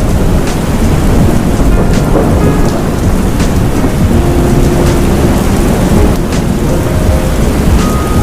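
Heavy rain pouring steadily in a thunderstorm, with thunder rumbling low underneath.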